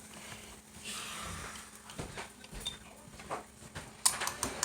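Light clatter of kitchen utensils and dishes: a few scattered soft knocks, then a quick run of sharp clicks and rattles near the end, over a faint steady hum.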